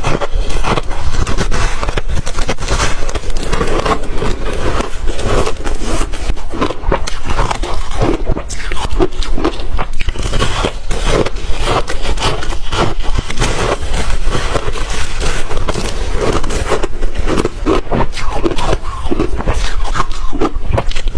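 Ice being bitten and chewed close to the microphone: a dense, irregular run of loud crunches, several a second, with no break.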